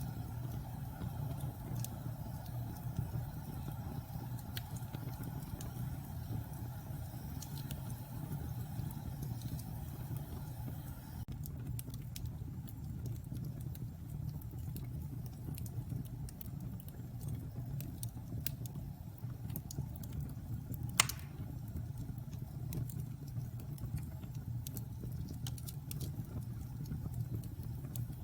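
Wood fire in a fireplace crackling, with scattered small snaps over a steady low rumble and one loud pop about three quarters of the way through.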